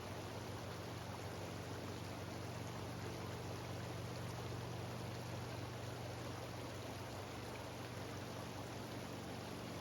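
Mountain stream waterfall cascading over rocks: a steady, even rush of water.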